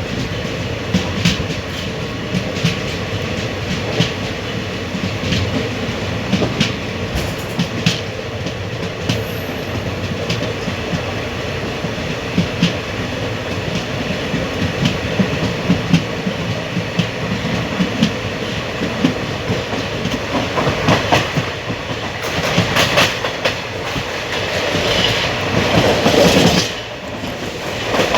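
Running noise of an ICF passenger coach at speed: a steady rumble of wheels on rails with repeated clicks as the wheels cross rail joints. It grows louder and harsher for several seconds near the end, then drops off abruptly.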